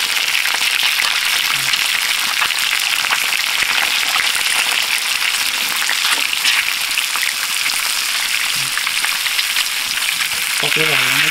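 Eggs frying in a pan: a steady sizzle with many small crackling pops.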